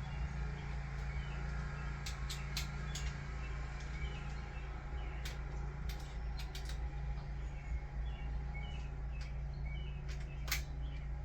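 Scattered sharp clicks and clinks of hand tools on the engine's bolts, a few at a time, over a steady low hum, with faint bird chirps in the background.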